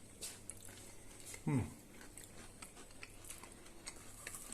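Faint chewing and small clicks of people eating chocolate fridge cake, with one short voice sound falling in pitch, like an "mm", about a second and a half in.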